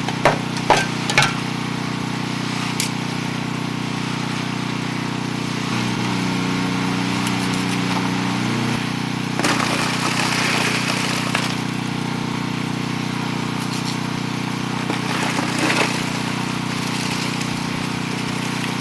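Engine running steadily, its note changing for about three seconds near the middle; a few sharp knocks right at the start.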